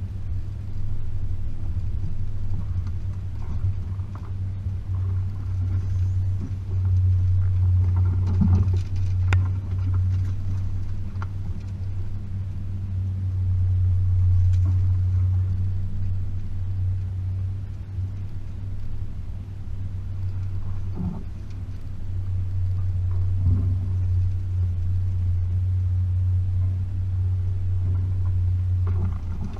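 Range Rover P38's 4.0-litre V8 engine running steadily at low speed, a constant low drone, with a few knocks about a third of the way in and again past the two-thirds mark.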